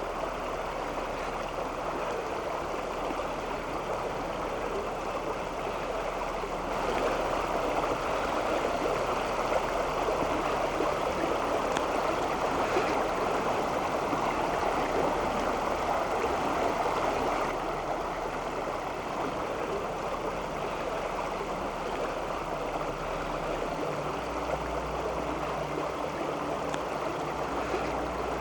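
Crum Creek's water running steadily, a little louder for about ten seconds in the middle.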